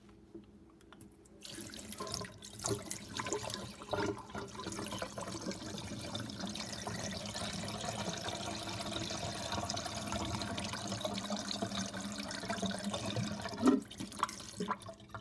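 A full watering pot of water poured into a working miniature toilet to flush it: a steady rush of water that starts about a second and a half in and stops shortly before the end, with a sharp knock just before it stops.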